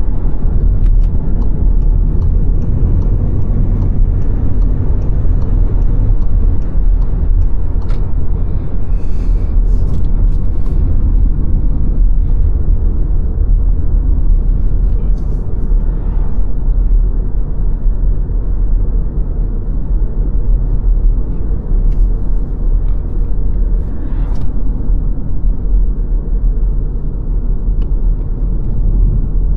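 Car driving along an open road: a steady low rumble of tyre, engine and wind noise, with a few faint ticks.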